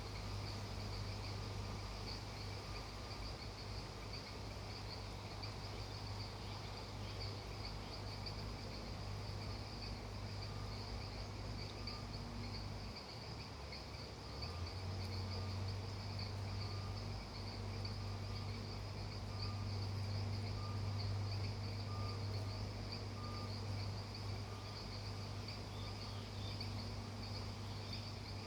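A steady chorus of crickets trilling, with short repeated calls from other insects or frogs, over a steady low hum that drops out briefly about halfway through.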